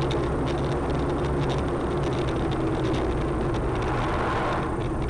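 Steady engine and road noise of a moving car, recorded from inside the car.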